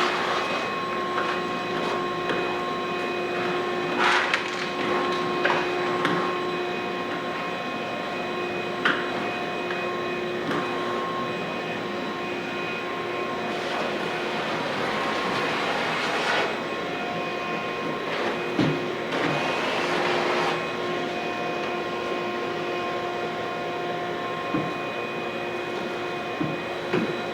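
A floor-cleaning machine's electric motor running steadily over carpet, with a constant whine and a hiss that swells twice near the middle. A few short knocks come through.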